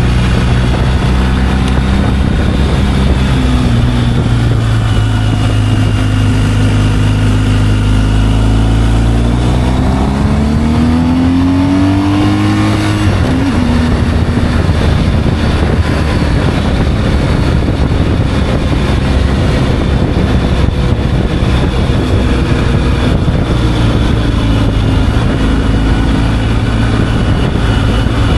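Motorcycle engine running on the road under a steady rush of wind noise. About ten seconds in, the engine note climbs as the bike accelerates, then drops sharply at a gear change, and it settles back to a steady note.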